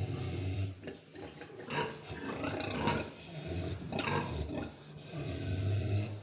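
Piglets grunting repeatedly, with several louder calls among the grunts.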